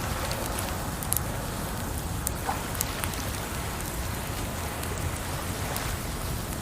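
Wood campfire crackling, with scattered sharp pops about once or twice a second, over a steady wash of running water.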